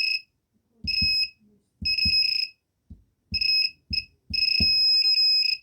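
Arduino earthquake-detector buzzer sounding a steady high beep in repeated bursts, about five or six in all, each set off by a dull thump that shakes the vibration sensor; the last beep holds for over a second.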